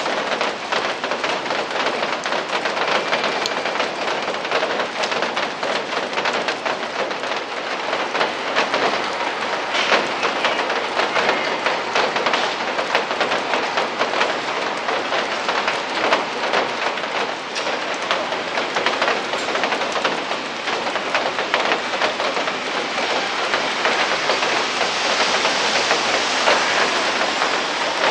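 Steady rain falling, a dense patter of drops over a continuous hiss.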